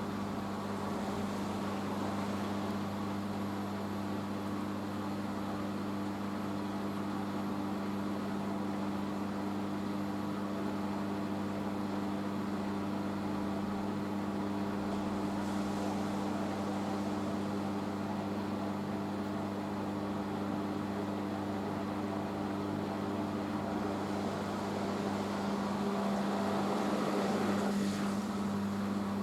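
Hoover H-Wash 500 front-loading washing machine spinning its drum at a constant speed during a rinse spin, a steady motor hum with a fixed whine. Towards the end one part of the whine drops away and the running gets slightly louder.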